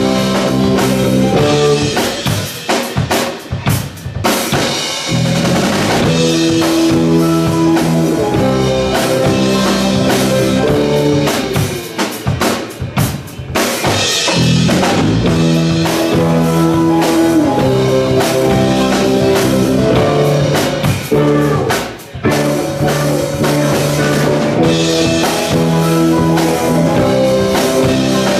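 Live rock band playing, with the drum kit prominent over sustained guitar and bass chords. The music thins out briefly a few times, around drum breaks.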